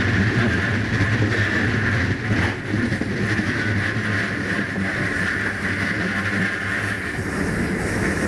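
Diesel-hauled passenger train running: a steady rumble of wheels on rail, with a low droning hum and a steady higher hiss, unbroken throughout.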